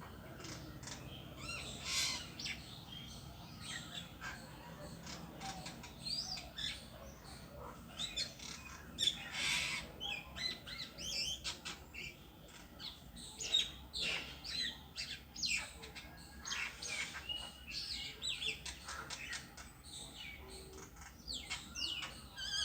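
A bird calling from a tree: a long run of short, high chirps and squawks at irregular intervals, some with quick pitch glides.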